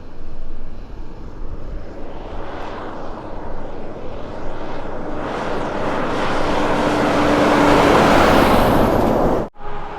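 Kenworth K200 road train approaching, its engine and tyre noise growing steadily louder over several seconds to a loud peak near the end, then cutting off suddenly.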